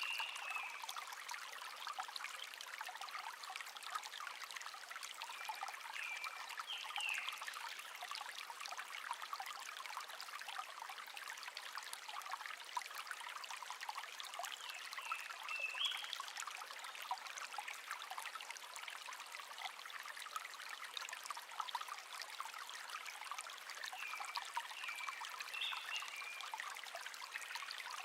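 Shallow stream babbling and trickling steadily, with a small songbird singing short chirping phrases four times, one every eight to ten seconds.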